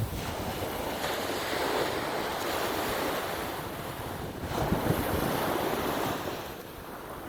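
Sea waves washing in and out, swelling and ebbing, with wind buffeting the microphone.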